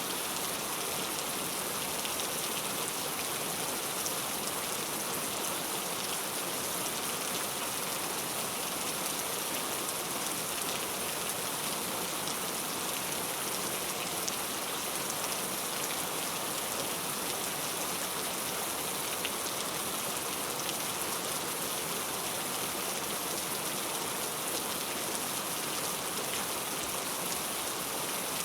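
Heavy rain falling steadily, a dense even hiss with fine drop patter on surfaces.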